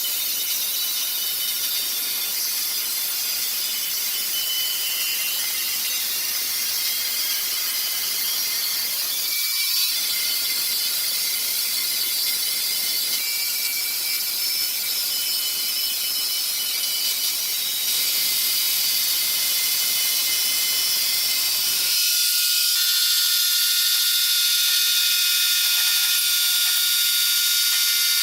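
Sawmill machinery running, a steady high-pitched whine over mechanical noise. The sound changes abruptly about ten seconds in and again a few seconds before the end, as from one machine to another.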